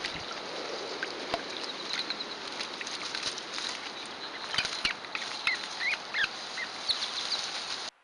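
Reed-marsh sound through a trail camera's microphone: a steady hiss with scattered clicks and rustles, and a run of short, high bird calls, several of them rising, most of them in the second half.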